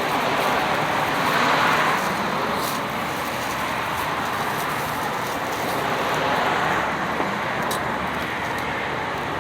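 Steady rushing background noise that swells and eases twice.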